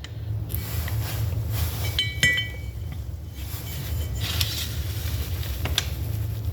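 Light metallic clinks and taps of a socket against the distributor housing as a 10 × 20 mm oil seal is pressed in by hand, with one ringing clink about two seconds in. A steady low hum runs underneath.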